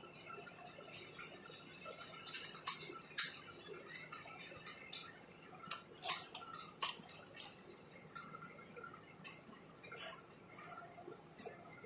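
Irregular light clicks and taps of small hard tools and parts being handled, typical of work on a phone's screen assembly, bunched in two flurries, one a couple of seconds in and one about halfway through.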